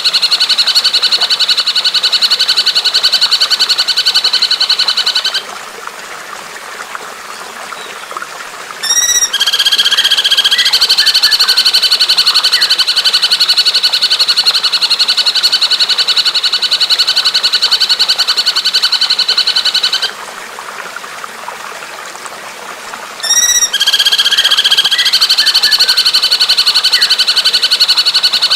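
Recorded bird calls on a loop: a fast, steady rattling call of evenly repeated notes runs for several seconds and breaks off. After a short lull, a quick series of notes falls sharply in pitch, and the rattle starts again. The whole cycle repeats twice.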